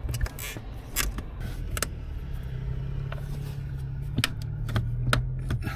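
VW T4 clutch pedal being pressed and released, its linkage giving sharp clicks and creaks several times over a steady low hum. The squeak has only partly gone after silicone spray, and the owner thinks something in the pedal mounting is cracked.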